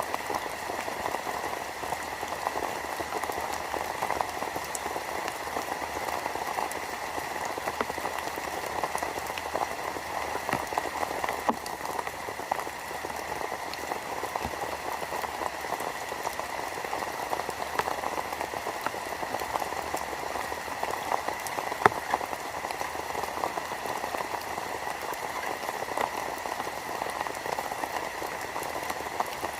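Steady rain falling, a dense spray of small drop hits, with one sharper tap about 22 seconds in. A faint steady high tone runs underneath.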